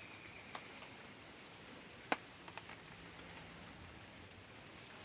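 Rain falling steadily as a faint hiss, with a few scattered sharp ticks of drops, the loudest about two seconds in.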